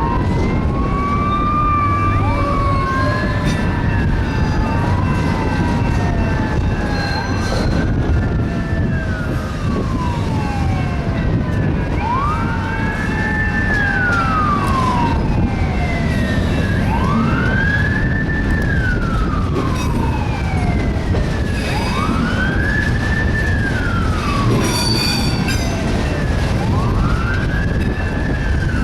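Emergency vehicle siren wailing, each rise and fall taking about four to five seconds, with a second siren overlapping it in the first ten seconds or so. Underneath runs the steady rumble of a freight train rolling past.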